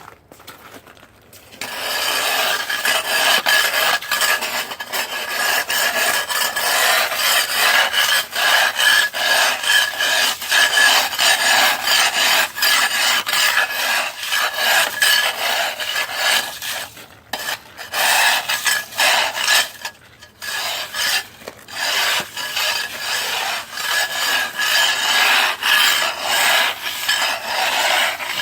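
Ice being scraped off a surface in rapid, repeated rasping strokes, starting about two seconds in and stopping briefly a couple of times.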